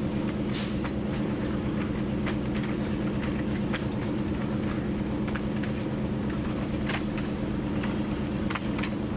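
TU7 narrow-gauge diesel locomotive under way, its V12 diesel engine running at a steady drone, with irregular sharp clicks and knocks from the wheels on the track.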